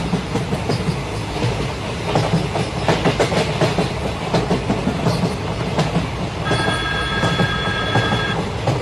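Train running on rails: a steady rumble with the wheels clattering over the rail joints. Near the end a steady high tone sounds for about two seconds.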